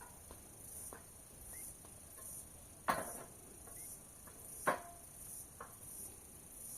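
Insects chirping in a steady high-pitched pulse, about one and a half chirps a second, with a few sharp knocks or taps, the two loudest about three and four and a half seconds in.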